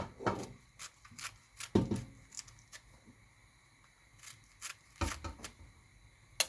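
Vegetables being shredded and grated by hand: irregular cutting and scraping strokes at an uneven pace, with a couple of heavier thumps about two seconds and five seconds in.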